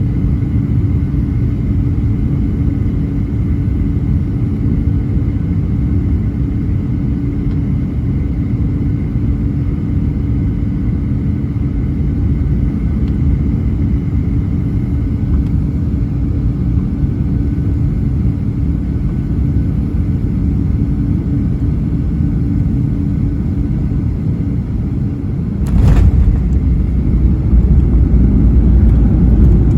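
Cabin noise of a Boeing 737-800 heard at a window seat over the wing: the steady rumble of its CFM56 engines and airflow, with a faint held hum. About 26 seconds in a sudden thump is followed by a much louder, rougher low rumble, the sound of the wheels touching down and the jet rolling out on the runway.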